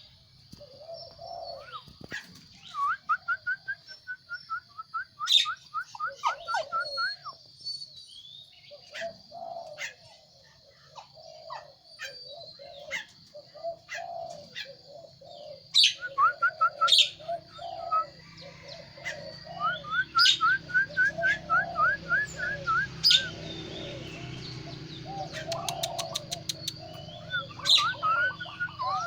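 Birds chirping: several runs of quick rising chirps, with lower warbling calls in between.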